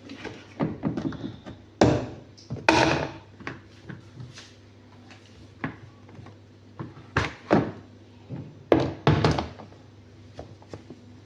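Irregular thuds and knocks, a handful of louder ones among lighter taps, from handling around a twin-tub washing machine that has just stopped running.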